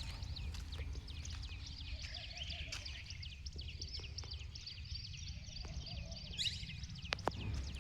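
A dense chorus of many small birds chirping, with quick downward-sliding chirps crowding over one another, over a steady low rumble. There are a couple of sharp clicks near the end.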